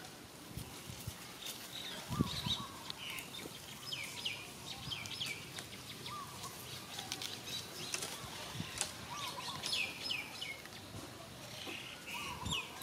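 Small birds chirping in the background: short, high calls that sweep in pitch, repeated throughout. There is a low thump about two seconds in.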